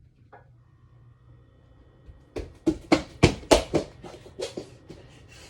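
A quick run of sharp knocks or thuds, starting about two seconds in, several a second for about a second and a half, then softer ones trailing off.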